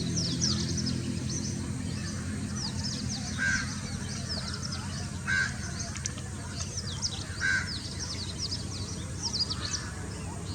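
Birds calling: a dense chorus of short, high chirps, with a short call repeated about every two seconds. A low steady hum lies underneath.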